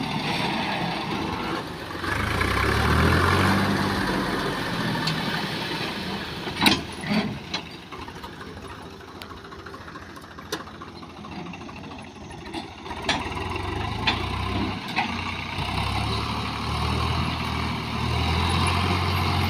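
Heavy diesel engine of earth-moving machinery running, revving up and settling back more than once. Sharp knocks about seven seconds in, and a few more later.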